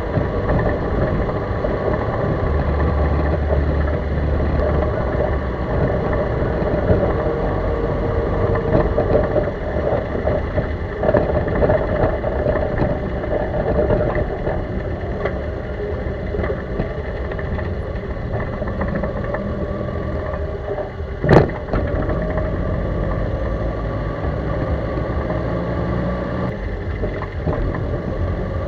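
Chevrolet Corsa running, a steady car noise with scattered light clicks and one sharp knock about twenty-one seconds in.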